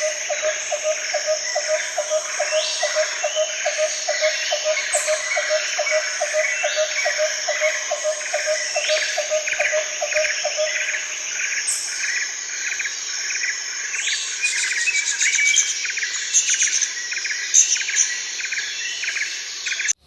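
Outdoor ambience of birds calling and chirping over a steady, high insect drone. For the first ten seconds a low call repeats evenly, about three times a second, then stops.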